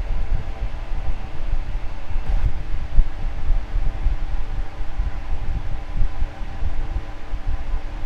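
Fan running steadily: a constant motor hum over the rush of moving air, with an uneven low rumble underneath.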